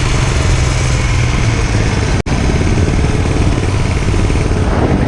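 Dirt bike engine running hard under way, loud and steady with a dense low rumble, broken by a split-second gap in the sound about two seconds in.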